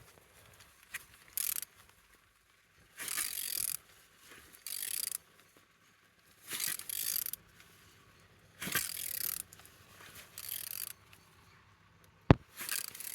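Ratchet wrench clicking in a series of separate strokes, each half a second to a second long with short pauses between, as the engine is turned over by hand at the crankshaft. It turns freely, a sign that the engine is not seized. A single sharp knock comes near the end.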